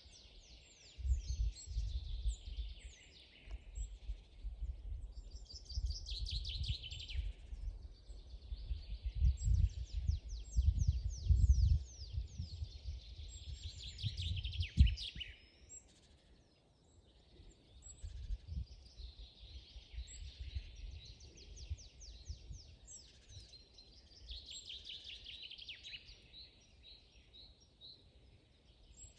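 Songbirds singing: repeated trilled phrases made of quick descending notes, one after another. A low, uneven rumble runs underneath through the first half and is loudest around the middle.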